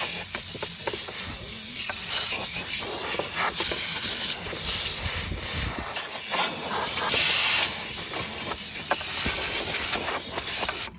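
Compressed-air blow gun hissing as it blasts dirt and grass off the air filter housing of a Kawasaki FR-series twin-cylinder mower engine, varying as the nozzle moves, then cutting off suddenly near the end.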